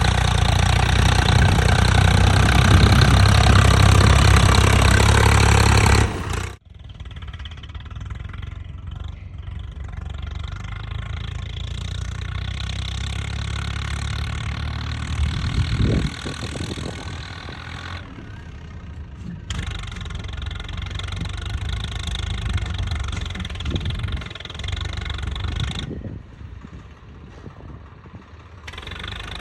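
Swaraj 855 FE tractor's three-cylinder diesel engine running steadily while hauling a fully loaded trolley. It is loud for the first six seconds, then cuts off suddenly to a quieter run of the engine, with a few more abrupt changes in level later on.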